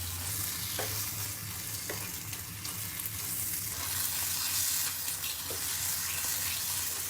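Onion-tomato masala sizzling in a pan as a ground spice paste is stirred in with a spoon, with a few light taps and scrapes of the spoon against the pan.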